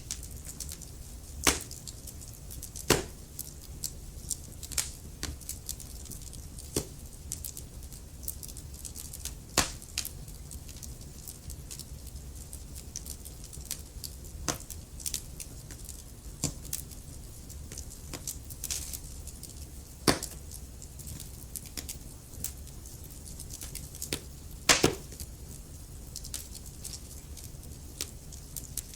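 Wood fire burning in a fireplace, crackling with irregular sharp pops over a steady low rumble and hiss; the loudest pops come about a second and a half in, near three seconds, near ten, near twenty and near twenty-five seconds.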